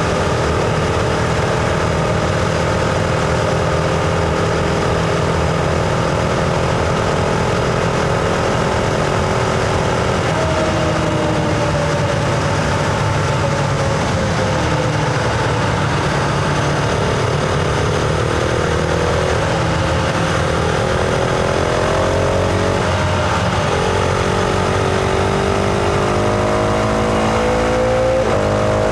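Husqvarna Vitpilen 701's single-cylinder engine running under way: a steady cruising note for about ten seconds, then the pitch dips and climbs as the throttle is rolled off and opened again, rising near the end, over wind and road rush.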